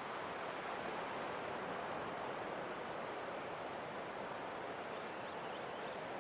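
Ocean surf on a beach, a steady even wash of breaking waves with no separate crashes standing out.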